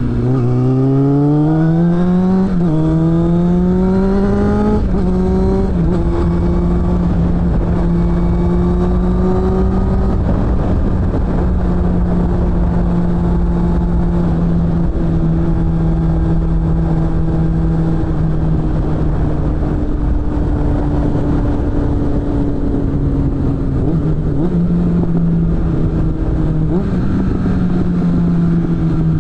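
Suzuki GSF600 Bandit's inline-four engine through a BOS aftermarket exhaust under way: it revs up in two rising pulls with a gear change between them, drops back about five seconds in, then holds a steady cruise whose pitch slowly sags. Near the end there are two short throttle blips before the revs fall away.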